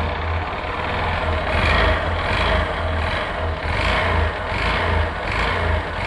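Honda Fan 125's single-cylinder four-stroke engine running with a light knock in the motor. The knock could be excess connecting-rod clearance or piston slap.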